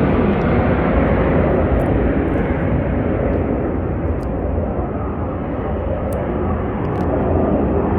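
Jet aircraft engine roar from an air force display, loud and steady, easing slightly midway and building again.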